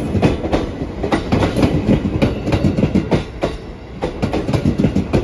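Electric commuter train running past close by, its wheels clattering over the rail joints in quick repeated clicks over a low rumble.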